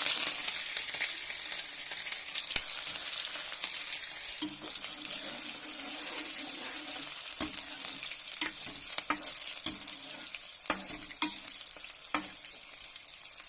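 Chopped onion sizzling loudly in hot oil for a dal tadka, the hiss strongest at first and easing slightly, with a spoon clicking against the pan as it is stirred.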